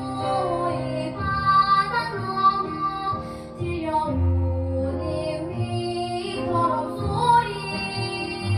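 A child singing a Jeju-dialect children's song with instrumental accompaniment, holding long sustained notes.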